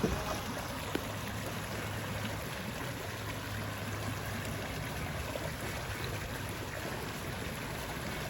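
Creek water running steadily through a culvert at a creek crossing, flowing again after the culvert was cleared of sticks and leaves that had stopped it up.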